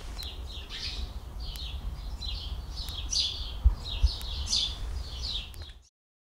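Small birds chirping repeatedly, several short high notes a second, over a low rumble with a couple of soft bumps; the sound cuts off suddenly just before the end.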